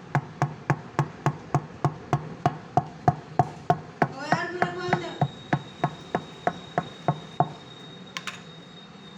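Steady hammering in a tyre repair: a long run of sharp, even blows at about three a second that stops abruptly about seven and a half seconds in.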